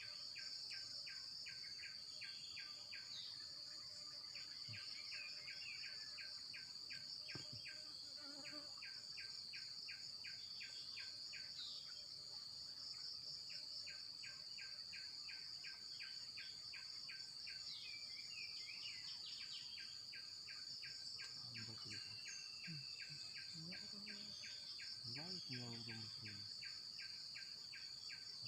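Insects calling steadily: a continuous high-pitched drone, with a chirping pulse repeating about four times a second that stops and starts again. Occasional short bird chirps.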